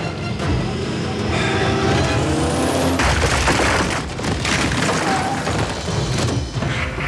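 Car chase movie sound effects: engines revving, then noisy crashes and impacts from about three seconds in.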